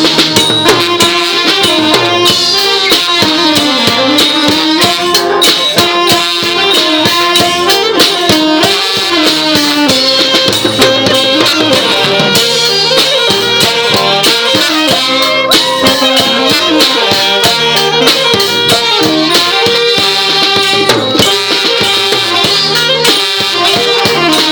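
Thai trae wong brass band playing a traditional tune, a wavering melody over steady drumming.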